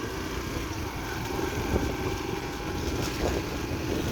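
Motorbike engine running while being ridden, a steady low rumble.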